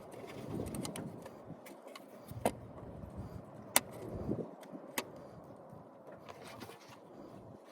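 Handling noises from hand work on parts: low rustling and scraping with three sharp clicks, about two and a half, four and five seconds in.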